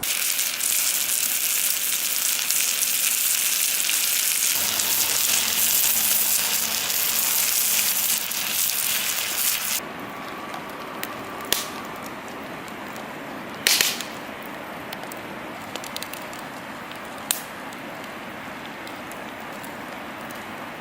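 Wood campfire burning in a fire stand: a loud steady hiss for about the first half, then an abrupt drop to quieter burning broken by a few sharp crackling pops, the loudest about two-thirds of the way through.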